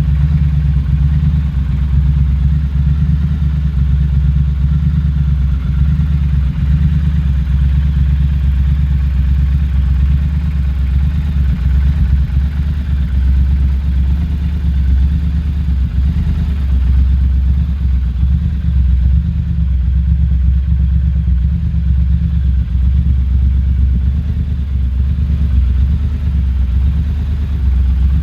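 Triumph Scrambler 1200 XC's 1200 cc parallel-twin engine idling steadily through an aftermarket Zard exhaust, with a deep, even exhaust note.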